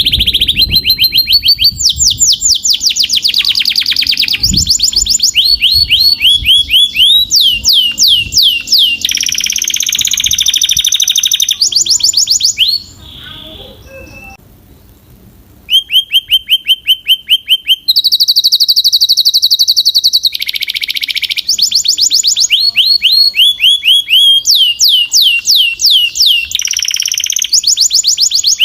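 Domestic canary singing: fast trills of repeated falling whistled notes, switching to a new run every second or two. The song pauses for about three seconds near the middle, then resumes.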